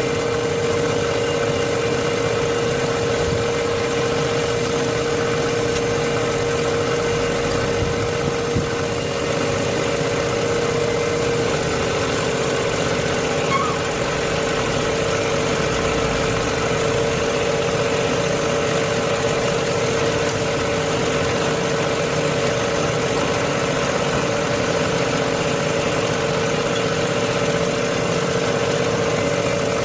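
Heavy truck engine idling steadily with a constant hum, running after a piston replacement meant to cure its loud engine noise. A second, slightly higher tone joins the hum partway through.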